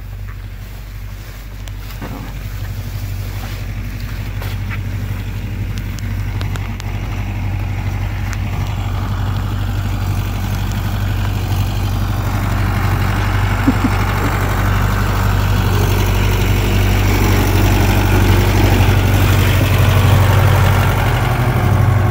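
Lawn mower engine running steadily with a low hum, growing steadily louder.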